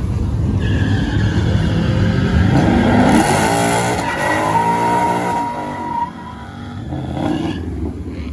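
Car engine revving hard while its tyres spin and squeal in a burnout. The engine climbs in pitch two to three seconds in, a steady high tyre squeal holds through the middle, and the sound drops off sharply about six seconds in.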